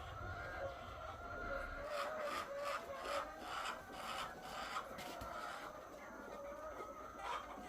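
Hens clucking and murmuring steadily as a flock. From about two to five seconds in, a run of short rubbing or scraping strokes, about three a second, is heard over them.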